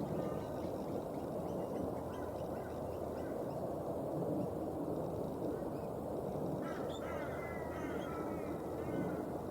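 Birds calling: short gliding chirps and calls, most of them in a cluster in the second half, over a steady low background rumble.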